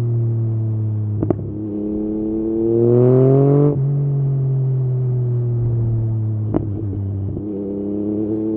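Yamaha MT-09's three-cylinder engine through an Akrapovič exhaust, ridden: it runs along easing off, pulls up in revs for about two seconds, then drops sharply off the throttle or into the next gear and slowly winds down again. Two short sharp clicks come partway through.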